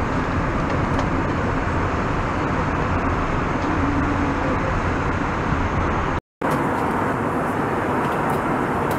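Steady noise of an Airbus A321 airliner heard inside the cabin: a constant rush with a low hum from the running jet engines and airflow. About six seconds in it cuts out for a moment.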